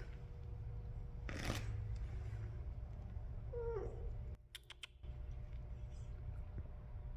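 A street cat meows once, a short call falling in pitch about three and a half seconds in, after a brief rustle.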